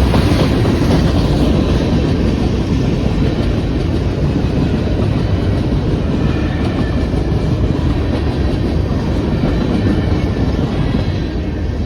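Empty freight cars of a grain train rolling past, a steady loud rumble of wheels on the rails with clickety-clack over the joints, fading a little near the end.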